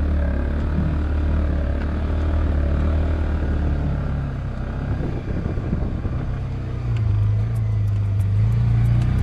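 Polaris Ranger 570 side-by-side's single-cylinder engine running under way, its pitch and level stepping up about seven seconds in as it speeds up.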